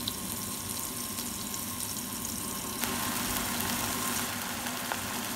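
Garlic sizzling in hot oil in a nonstick wok, changing about three seconds in to marinated bulgogi sizzling in the pan.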